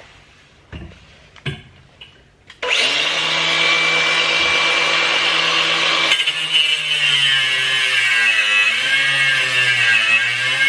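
Angle grinder starting up about a third of the way in after a few light knocks, then grinding through a rusted anti-roll bar, its pitch dipping and wavering under the load.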